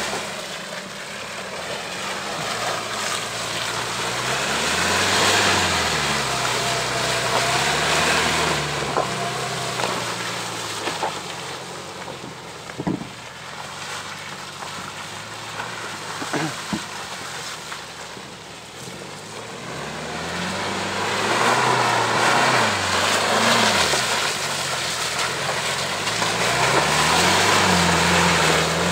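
Subaru Forester engine revving up and down again and again as the SUV works its way through deep mud ruts. There is a continual rushing noise, and a couple of sharp knocks about halfway through.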